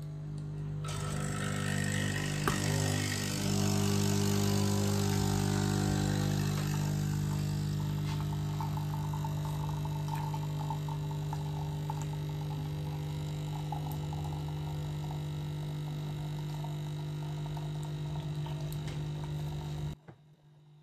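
An electric household appliance motor running steadily with an even hum and a whooshing rush of air, switched off suddenly about 20 seconds in.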